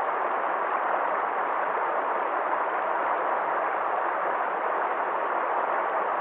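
Water flowing steadily down a wadi stream: an even, unbroken rush.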